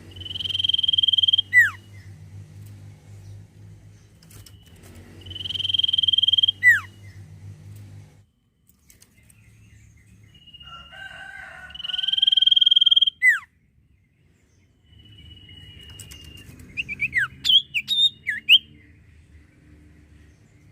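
Sirtu cipoh (common iora) calling: four phrases, each a long, steady, high whistle ending in a quick downward flick, the last breaking into a quick run of short chirps. A low hum runs beneath most of it.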